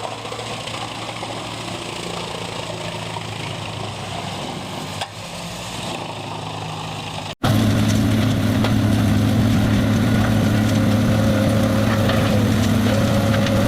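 Industrial wood chipper's engine running steadily. After an abrupt cut about halfway through, a large horizontal wood grinder's engine runs much louder with a steady deep drone.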